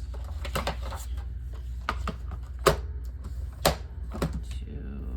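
Paper trimmer cutting cardstock: a string of sharp clicks and snaps, the two loudest near the middle.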